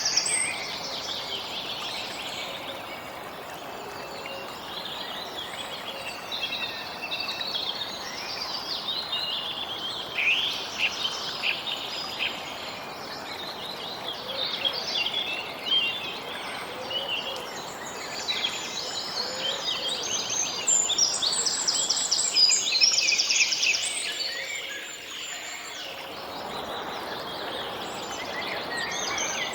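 A chorus of many small birds chirping and trilling, calls overlapping without a break, over a soft, steady background noise.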